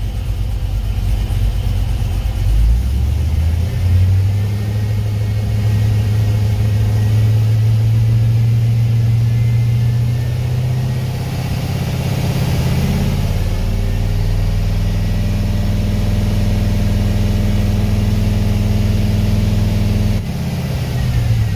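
Cammed 6.0 LS V8 idling right after its first start, on Edelbrock Pro-Flo 4 fuel injection. The engine note shifts a few times as the idle speed changes, dropping slightly near the end.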